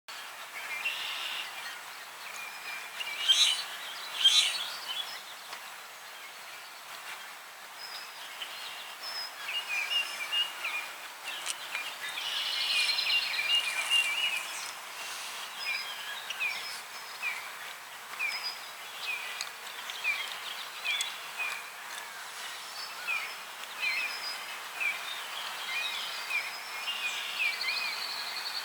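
Small birds singing and chirping: a busy run of short, quick repeated calls over a faint steady outdoor hiss, with two louder, sharper notes about three and four seconds in.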